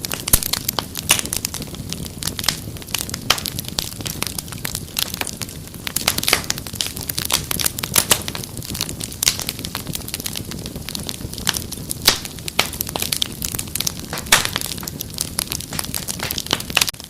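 Wood fire crackling: many irregular sharp pops and snaps over a steady low rumble of burning.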